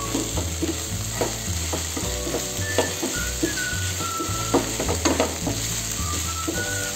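Chili and shallot spice paste sizzling in a nonstick frying pan while a wooden spatula stirs and scrapes it, the scrapes and taps coming at irregular moments over a steady sizzle. The paste, with bay leaf, kaffir lime leaves and lemongrass just added, is being sautéed until the spices lose their raw smell.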